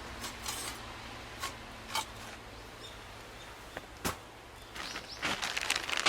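Wood fire crackling, with sharp single pops now and then and a denser run of crackles and rustling about five seconds in.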